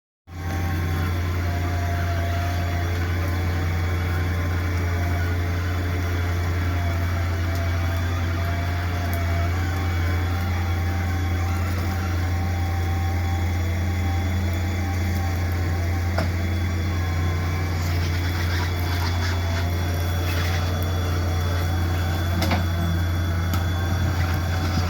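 A truck engine running steadily with a deep, even hum, with a few light knocks and clicks in the later seconds.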